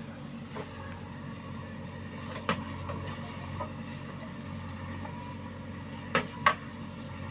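Heavy diesel machinery engine running steadily, with a few sharp knocks; the loudest two come close together near the end.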